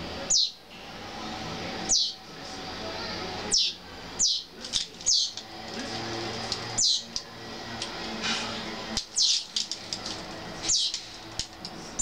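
Young songbird fledglings begging to be fed by a parent: short, sharp, high calls that fall in pitch, repeated about once a second and sometimes in quick pairs, over a steady low background noise.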